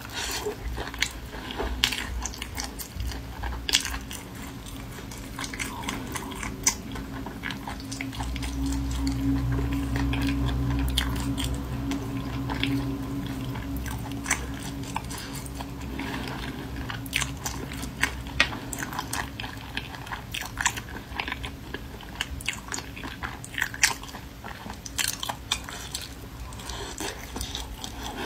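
Close-miked eating of snails in their shells in chili sauce: wet chewing and sucking with frequent sharp clicks of shell and mouth. A low steady hum swells underneath from about eight seconds in and fades out after about eighteen.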